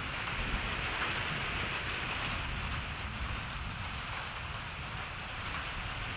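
Steady rain falling and pattering, an even hiss with a low rumble underneath and no distinct thunderclap.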